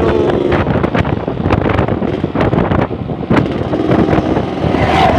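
Yamaha RX-King's single-cylinder two-stroke engine pulling hard under open throttle while riding, with wind buffeting the microphone.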